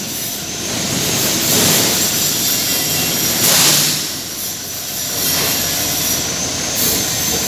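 Steady mechanical roar with a thin, steady high whine, swelling briefly about three and a half seconds in.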